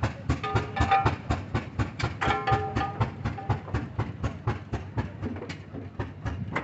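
Antique engine running with an even, rapid exhaust beat, about five to six sharp pops a second.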